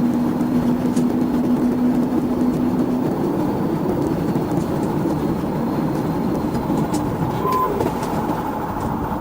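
Car driving at speed: steady engine and road noise, with a steady hum that fades out about three seconds in.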